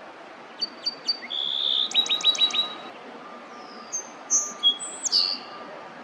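A songbird singing a varied phrase: a few sharp high notes, a buzzy note, a quick run of about five rapid notes, then a few higher whistled notes, over a steady background hiss.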